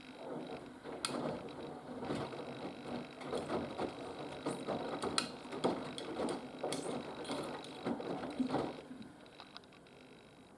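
Haier HW120 front-loading washing machine drum turning during the wash, with wet laundry tumbling in irregular knocks and swishes. The drum runs for about nine seconds and then stops.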